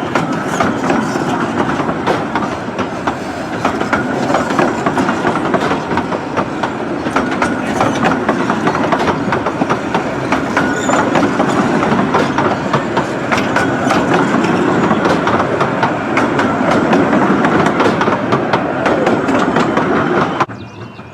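Train of the Romney, Hythe and Dymchurch Railway, a 15-inch gauge miniature railway, running close by: carriage wheels clacking rapidly over rail joints with a steady rolling rumble. The sound cuts off suddenly near the end.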